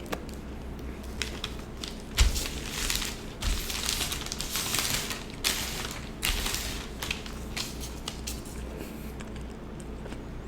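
Close-miked chewing and biting of an Italian sub sandwich: crackly, crunchy mouth sounds that come in clusters, busiest through the middle.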